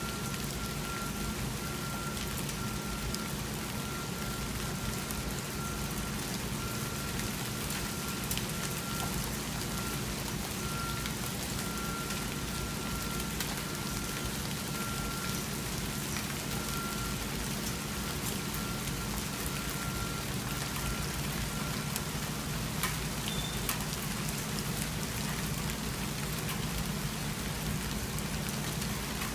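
Hail falling steadily: a dense hiss of pelting ice with scattered sharper clicks of single hits.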